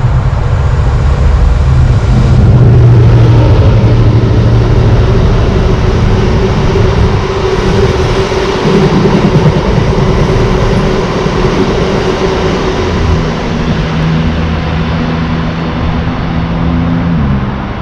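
A train passing close by, running loud and steady with a held hum whose pitch slides down near the end.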